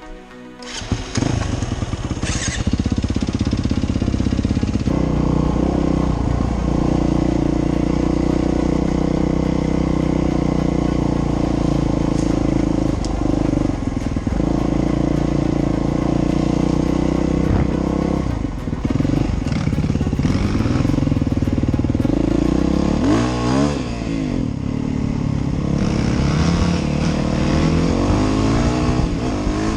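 Dirt bike engine running as the bike is ridden along a trail, starting about a second in. Its pitch holds mostly steady, then rises and falls with the throttle twice in the later part.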